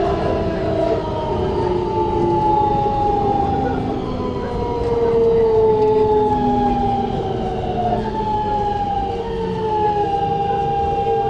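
Siemens GTO VVVF inverter motors of a Keikyu New 1000 series train, heard from inside the car: several whining tones that glide down in pitch in steps as the train slows, over the rumble of the wheels on the rails. Near the end the tones level off and hold steady.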